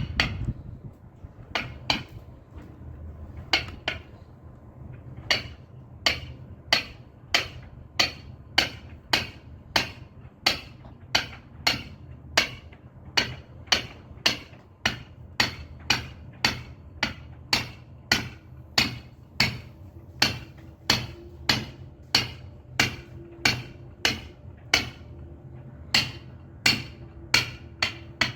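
Caulking mallet striking a caulking iron, driving filling into a wooden hull's plank seam. Sharp blows, a few spaced ones at first, then a steady rhythm of about two a second.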